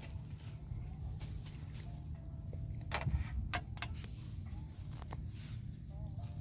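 Outdoor pond-side ambience: a steady high-pitched insect trill over a low rumble, with a few sharp clicks, two about three seconds in and one near five seconds.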